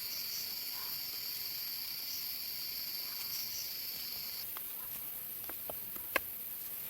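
Forest insects droning steadily in high, even tones; one of the drones cuts off about two-thirds of the way through. After that come a few light, sharp clicks, the loudest a little before the end.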